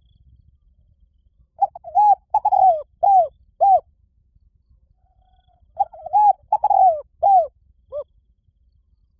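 Spotted dove cooing: two phrases of five coos each, a couple of seconds apart.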